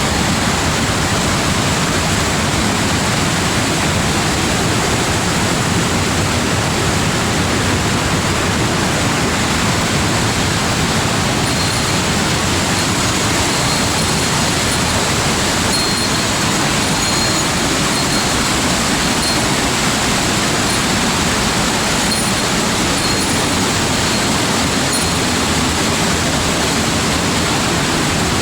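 Steady, unbroken rush of falling water from a mountain waterfall.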